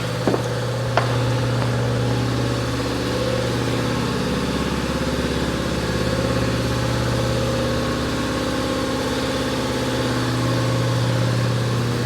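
A motor or engine running steadily with a low, even hum, with a couple of light clicks about a second in.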